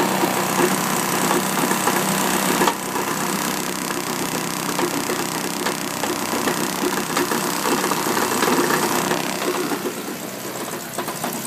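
Car engine running steadily, heard up close in the engine bay by the crank pulley and drive belt; the owner takes the engine to be ruined ('tacoed').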